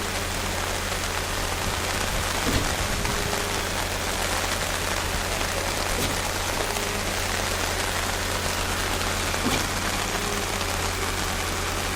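Steady rain falling, with a couple of faint knocks about two and a half and nine and a half seconds in.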